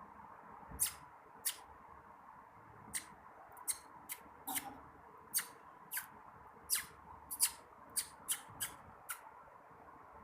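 A parrot giving short, sharp, high-pitched squeaks, about fifteen of them at irregular intervals, some in quick pairs.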